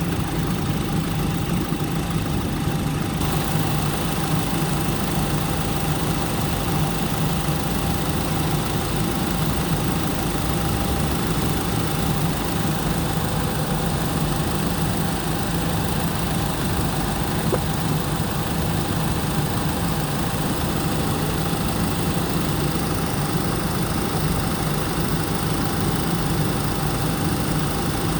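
Car engine idling steadily while its cooling system is burped of trapped air after a coolant flush.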